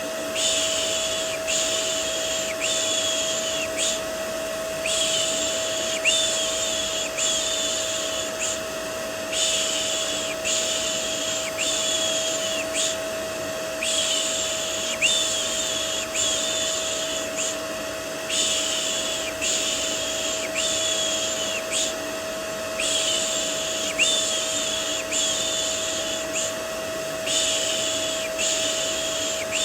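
Rhythmic 'shh shh' shushing for soothing a baby, in runs of several strokes broken by short pauses, over the steady hum and whine of a vacuum cleaner used as white noise.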